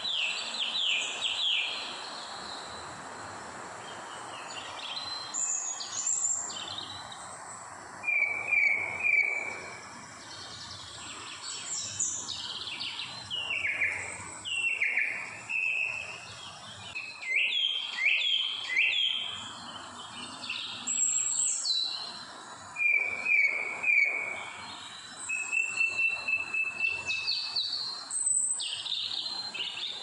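Birds singing and calling: repeated short chirps, quick trilled phrases and downward-sweeping whistles, over a steady background hiss.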